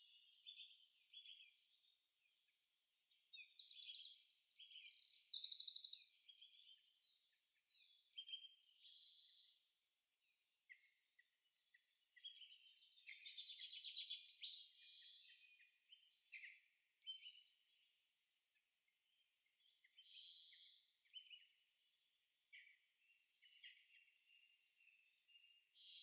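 Faint songbird chorus: several birds singing and calling in short chirps and rapid trills, with the loudest song bouts about three to six seconds in and again around twelve to fifteen seconds in.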